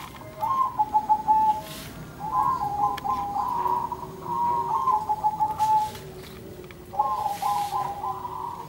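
Zebra doves (perkutut) cooing, in three bouts of quick rolling coos.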